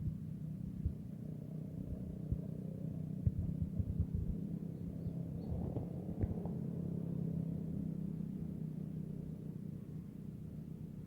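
Strong wind buffeting the microphone: a low rumble with sudden thumps in the first few seconds, smoothing out to a steadier rumble later.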